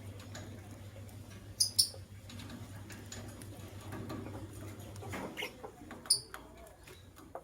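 Lovebirds giving short, sharp, high chirps: two in quick succession about a second and a half in, another near the end, and quieter chirps between. A low steady hum underneath stops about five seconds in.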